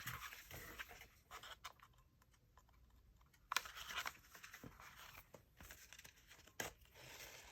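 Faint rustling of paper and thread as a needle and thread are pulled through a journal signature during hand bookbinding, with a few sharp ticks.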